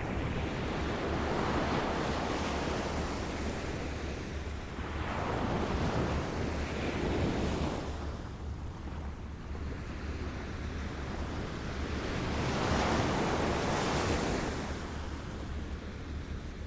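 Small waves lapping on a shore, washing in and ebbing in three slow surges, with a steady low wind rumble on the microphone.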